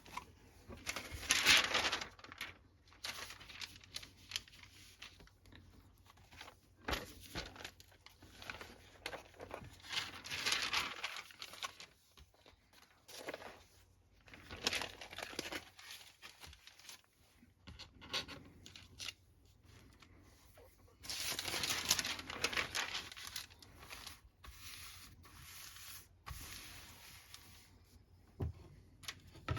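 Paper and sheets being handled, rustling and crinkling in several irregular bursts with quieter stretches between.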